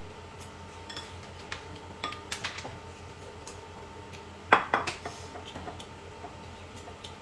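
Dishes and cutlery clinking in scattered light knocks, with one sharper, louder clink about four and a half seconds in.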